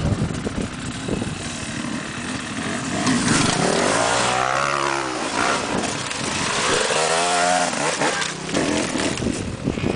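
Motocross dirt bike engine revving hard, its pitch climbing and falling twice: once about three seconds in and again about seven seconds in.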